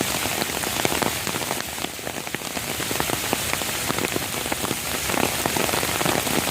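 Steady rain falling, a dense, even patter of many individual drops.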